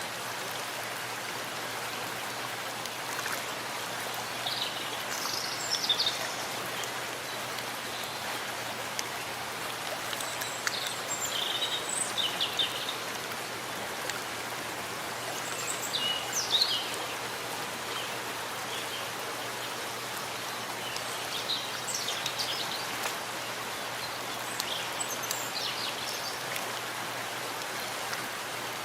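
Steady rain falling in a forest, an even hiss, with short high bird chirps every few seconds.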